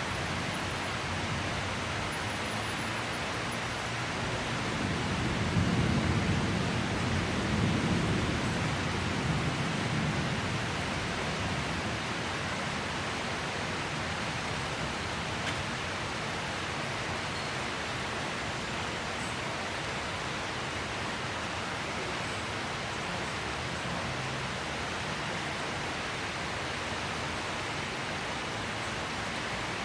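Steady rain falling in a rainy-season storm, an even hiss with no let-up. A low rumble swells and fades from about five to ten seconds in.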